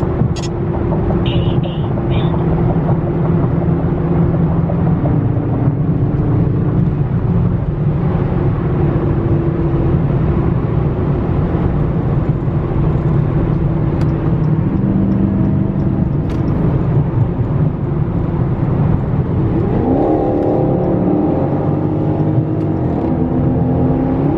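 Dodge Charger Scat Pack's 392 (6.4-litre) HEMI V8 running steadily while cruising on the road, its note rising and dipping briefly near the end.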